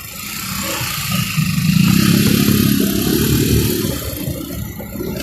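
Motorbike engine running, growing louder over the first two seconds as it speeds up, then easing off about four seconds in.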